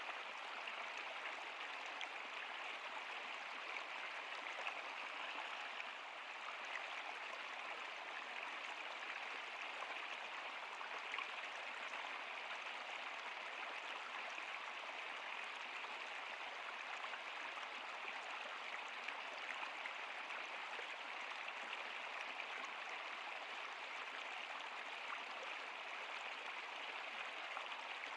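Stream water flowing and splashing over rocks in a steady, even rush.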